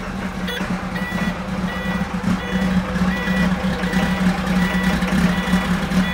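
Caterpillar 928G wheel loader's diesel engine running just after a cold start without glow plugs, under its high-pitched warning alarm beeping about one and a half times a second, starting about half a second in.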